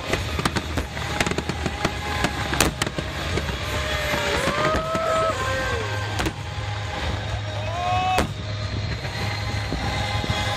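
Fireworks display bursting: repeated sharp bangs and crackling over a steady low rumble, with a few louder reports standing out.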